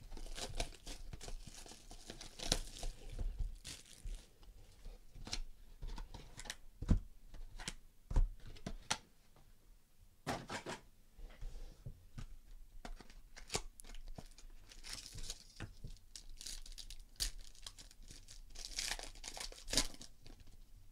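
Plastic wrapping on a box of trading cards being torn open and crinkled by hand, with irregular sharp clicks, taps and rustles.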